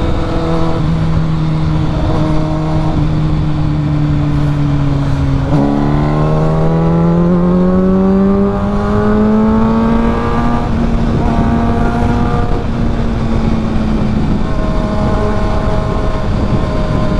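Small single-cylinder Honda Grom motorcycle engine under way, over wind rush. The engine note holds and sags slightly, then about five seconds in jumps up and climbs steadily under hard acceleration for several seconds. It holds high and eases off a little near the end.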